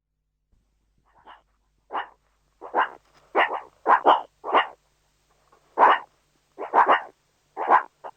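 A dog barking: about a dozen short, sharp barks, some coming in quick pairs, with brief pauses between them.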